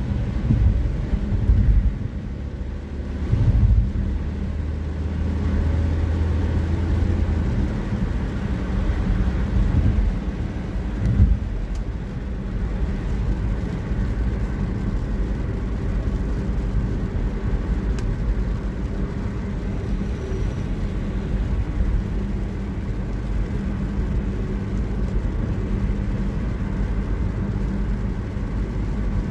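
Road traffic and a car engine running: a steady low rumble with an engine hum and a few louder swells in the first dozen seconds.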